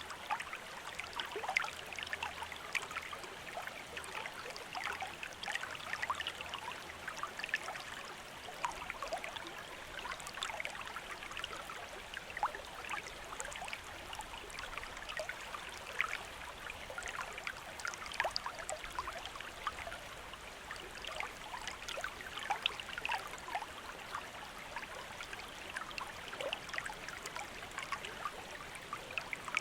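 Small stream of running water, a steady babble with many small splashes and trickles.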